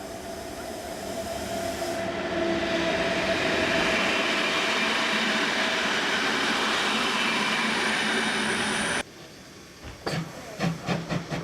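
A train passing close by: its rumble builds over the first two seconds and holds loud and steady. It cuts off abruptly about nine seconds in, and about ten seconds in a rhythmic clatter of wheels over rail joints begins.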